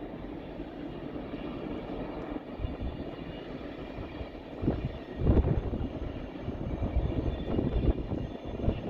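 Steady low rumble of a VIA Rail passenger train running by at a distance. From about halfway through, irregular louder low surges come in over it.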